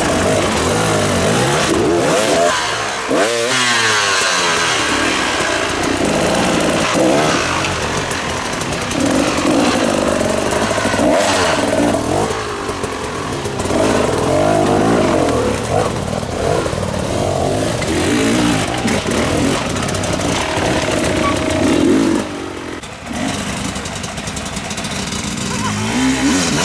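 Several motorcycle and quad engines revving and riding past, their pitch rising and falling over one another; the sound eases off a little near the end.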